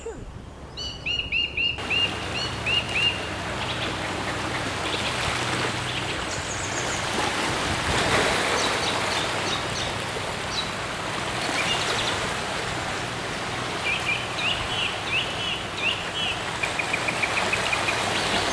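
Wild birds calling: a quick run of chirps in the first few seconds, scattered short calls through the middle, and a rapid trill of evenly spaced notes near the end, over a steady background hiss.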